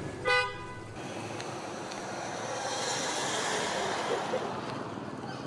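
One short, loud vehicle horn toot, followed by steady street traffic noise.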